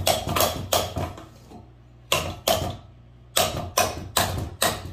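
Runs of sharp hammer blows on a blown-up Briggs & Stratton small engine as it is knocked apart, about three strikes a second, with two short pauses.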